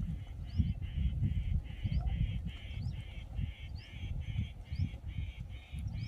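A bird calling a rapid series of harsh notes, about three a second, over an uneven low rumble.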